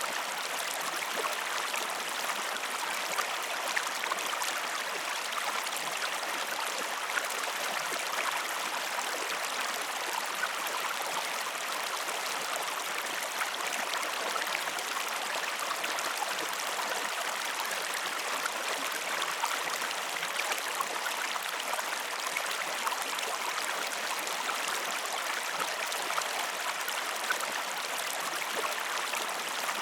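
Stream water flowing steadily, an even babbling rush with fine splashes and droplets throughout.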